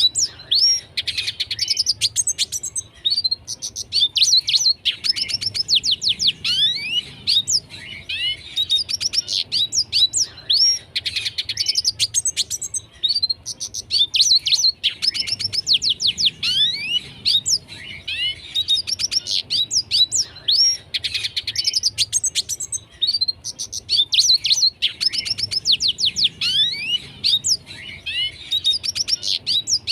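Red siskin singing steadily: a fast, twittering song of chirps, rapid trills and quick sweeping notes, in long phrases broken by short pauses.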